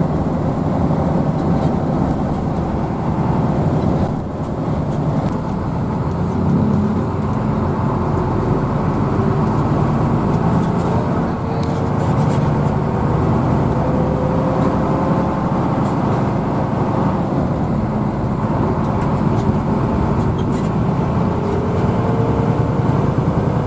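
Hino AK bus's engine and road noise heard inside the moving bus: a steady low rumble, with a faint whine that slowly rises in pitch in the second half.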